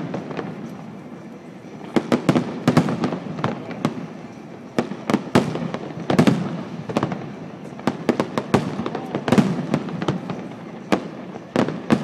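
Fireworks display: many sharp bangs and crackling pops from bursting shells, coming in waves a few seconds apart over a low rumble.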